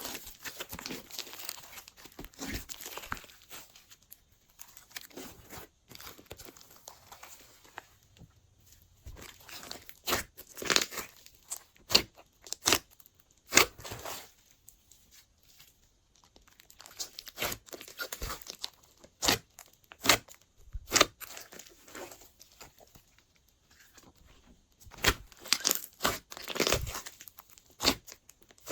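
Glossy slime being squeezed and stretched by hand, giving irregular sticky clicks and pops, thicker in clusters about a third of the way in and near the end.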